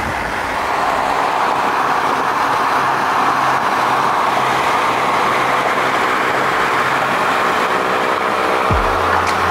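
Steady rush of wind and road noise from a moving car.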